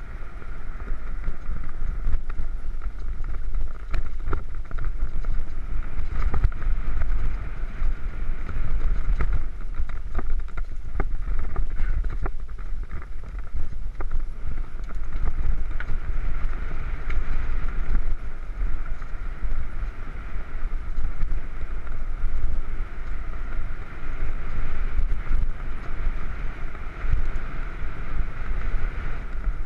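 Mountain bike riding a dirt trail: steady wind buffeting on the microphone over the rolling noise of the bike, with frequent small knocks and rattles as it runs over the ground.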